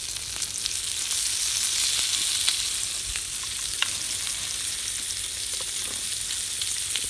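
Food frying in a hot pan: a steady sizzling hiss with scattered small pops.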